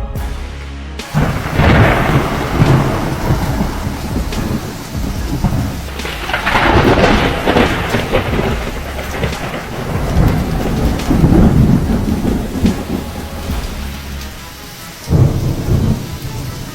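Rolling thunder over steady rain. Several rumbles swell and fade, the strongest about two, seven and eleven seconds in, with a sudden crack about fifteen seconds in.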